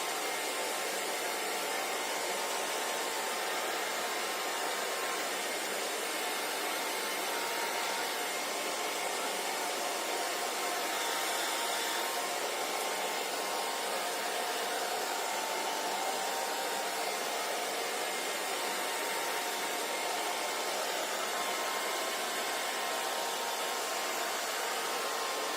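Hair dryer running steadily: an even rush of blown air with a faint motor hum, unchanging throughout.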